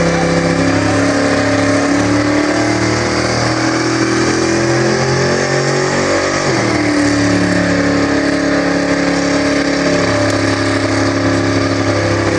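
Car engine running loud and steady, its pitch shifting up and down every few seconds as it is revved, with a quick change in pitch about six seconds in.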